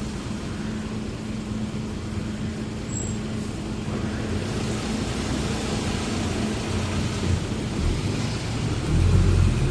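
Truck engine running and road noise while driving, a steady low hum that swells into a louder rumble near the end.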